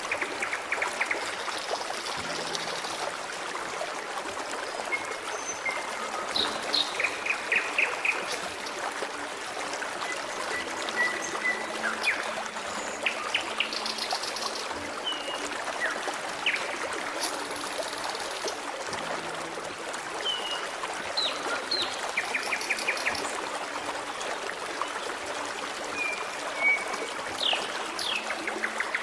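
Forest stream flowing steadily, with birds chirping, whistling and giving short trills over it throughout.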